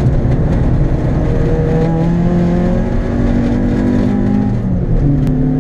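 Citroën Saxo VTS 1.6-litre four-cylinder engine running hard on track, heard from inside the cabin. The engine note holds fairly steady, changes briefly about four and a half seconds in, and a sharp click sounds near the end.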